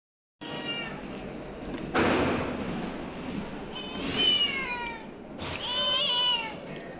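Hungry cat meowing: several drawn-out meows, each falling in pitch, with a loud harsh noise about two seconds in.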